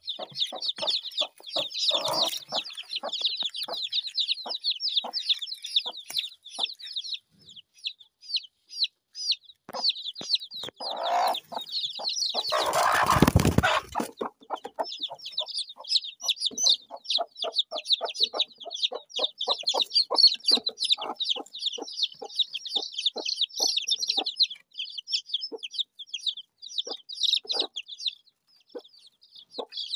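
Chickens clucking, with a dense run of short high chirps throughout and a loud noisy rush lasting over a second about halfway through.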